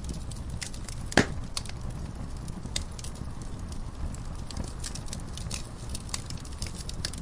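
Wood fire crackling in a fireplace: scattered sharp pops and snaps over a low steady rumble, with one loud pop about a second in.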